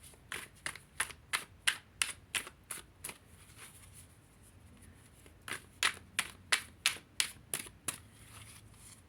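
A tarot deck being shuffled by hand: light, sharp card slaps about three a second, in two runs with a pause of about two seconds between them.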